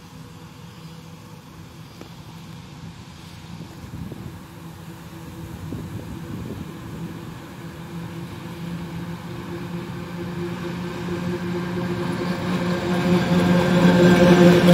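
ET22 six-axle electric locomotive hauling a freight train as it approaches and passes close. A steady electric hum with a low drone and a higher whine grows steadily louder, and the rush of wheels on the rails joins in near the end as the locomotive goes by.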